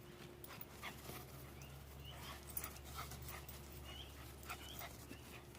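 Faint sounds of a puppy play-fighting with a cat: short high squeaks and light scuffling ticks, scattered through, over a low steady hum.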